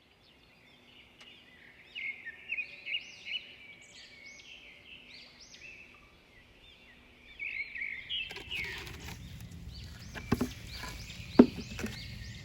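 Small songbirds chirping in rapid series of short, arched notes. In the last few seconds a rustling starts, with two sharp knocks, the second one the loudest sound.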